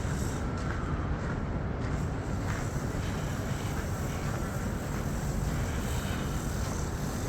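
Steady low rumble of outdoor ambient noise, even in level throughout, with no distinct events.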